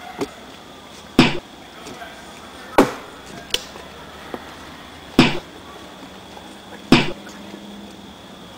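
A series of heavy, sharp blows, four in all, landing roughly every two seconds, each a hard thud with a short ring after it.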